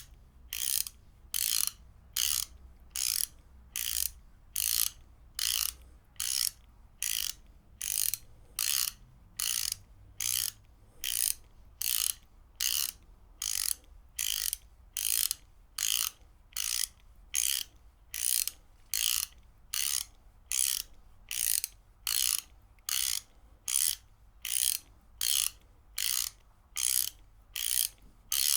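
Ratchet wrench being worked in a steady rhythm: short bursts of pawl clicking about one and a half times a second, with brief gaps between.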